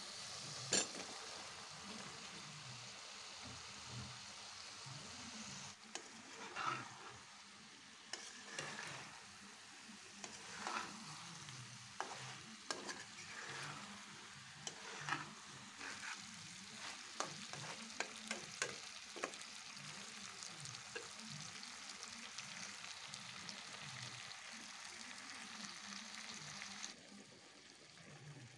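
Boiled mati aloo (earth potato) chunks frying in oil and spice paste in a pan: a steady low sizzle, with a spatula scraping and clacking against the pan as they are stirred. There is one sharp click about a second in, and the sizzle drops off shortly before the end.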